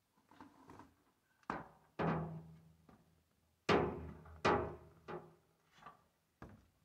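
A series of about eight irregular knocks, each ringing on briefly, as if struck on something hollow; the loudest come around the middle.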